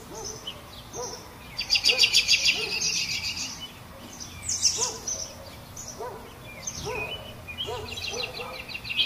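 Birds singing: scattered high chirps, with a loud fast trill about two seconds in and another burst near the end, over a shorter lower call repeated every second or so.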